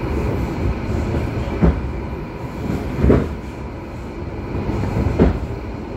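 Passenger train running, heard from inside an Argo Cheribon executive-class coach: a steady low rumble with three sharp clacks from the wheels going over the track, about a second and a half in, at three seconds, and just after five seconds.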